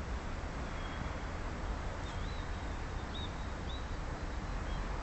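A small bird calling several times in short, high chirps and whistles from about two seconds in, over a steady low rumbling noise.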